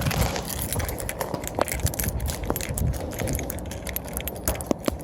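Wind buffeting the microphone as a low rumble, with many scattered small crackles and clicks.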